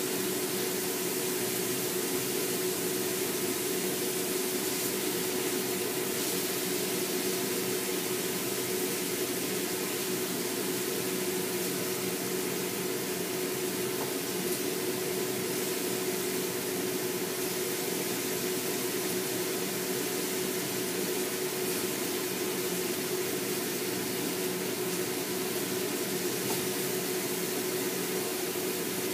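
Enoki-and-beef rolls frying in oil in a pan, a steady sizzle, with a constant hum underneath. The rolls are being fried longer to cook off the water the enoki mushrooms release.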